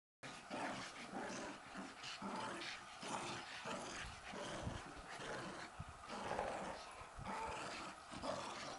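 Dogs growling in rough play, with irregular noises throughout.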